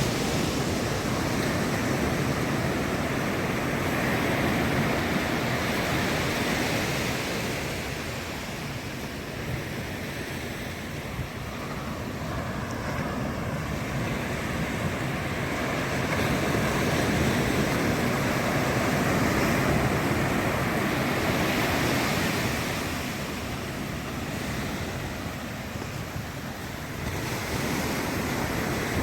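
Ocean surf breaking and washing up the beach in a steady rush that swells and eases every several seconds, with some wind on the microphone.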